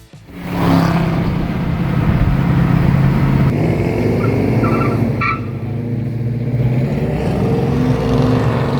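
Car engine running steadily while driving, a loud low drone that starts suddenly and dips slightly around five seconds in.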